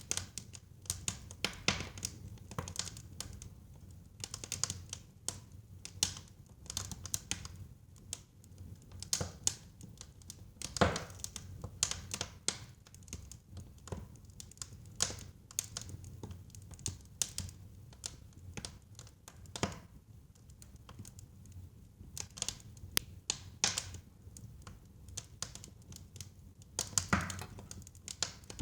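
Wood fire crackling in a fireplace: irregular sharp pops and snaps over a low steady rumble of burning, with a louder pop about eleven seconds in and another near the end.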